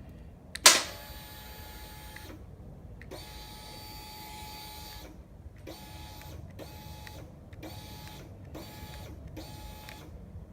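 A small electric motor on a Harley-Davidson Sportster 883 that won't start: a click, then the motor whirs steadily in repeated runs. The first two runs last about two seconds, and the rest are shorter bursts of under a second, one after another.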